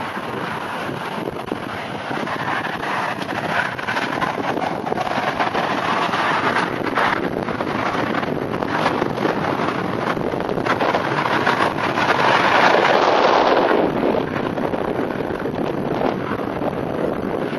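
Strong gusty wind of a sandstorm blowing across the microphone, a steady rush that swells to its loudest about twelve seconds in and then eases a little.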